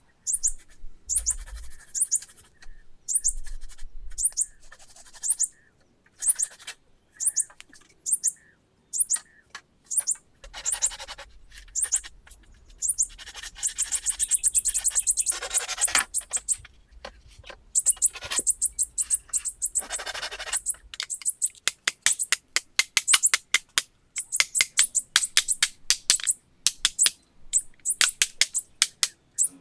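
Small bird chirping: short, very high chirps repeated every half second or so, running into quick strings near the end.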